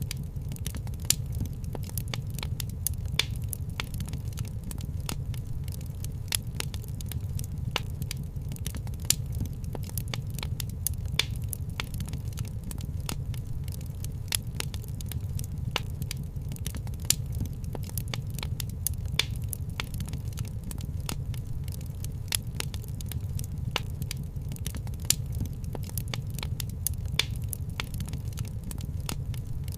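Wood fire in a fireplace crackling: many small crackles and a louder pop every couple of seconds over a steady low rumble of the flames.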